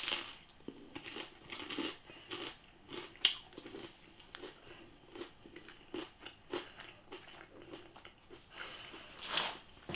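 A person biting into a breadcrumbed crispy pancake and chewing it, with irregular small crunches and one sharper crunch about three seconds in.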